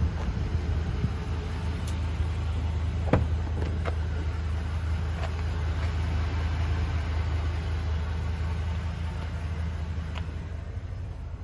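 Ford E350's 6.8-litre V-10 gas engine running steadily with a low, even hum, with a few light clicks over it.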